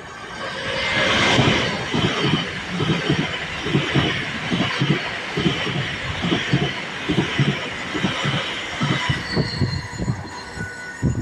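Train running past on the track, its wheels clicking over rail joints a few times a second over a steady hiss of wheel on rail. It is loudest about a second in and eases off near the end.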